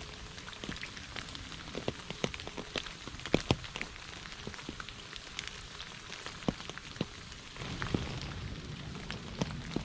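Heavy rain falling: a steady hiss with many separate drops tapping sharply on a surface. The rain grows a little heavier about three quarters of the way through.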